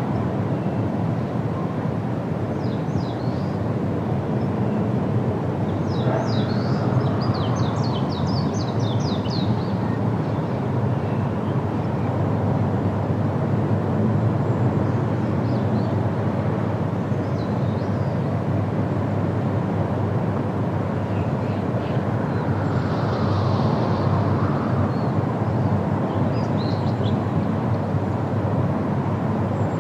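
Steady wind through forest trees, a low rushing, with small birds chirping over it: a quick run of short chirps about six seconds in, and scattered single calls later.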